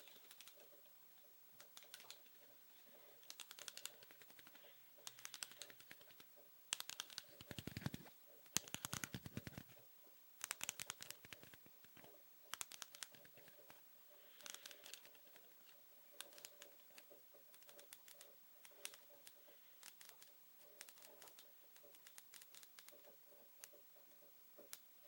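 Soft ASMR tapping: quick runs of small clicks in clusters a second or two long, with short pauses between. The fullest, loudest runs come about a third of the way in.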